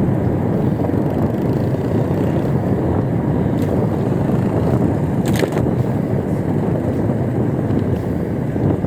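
Wind buffeting the microphone during an e-bike ride: a steady, loud noise with no tone, with a brief click about five seconds in.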